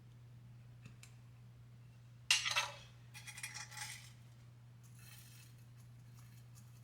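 A brief clatter of small hard objects clinking together about two seconds in, followed by softer rattling, over a steady low hum.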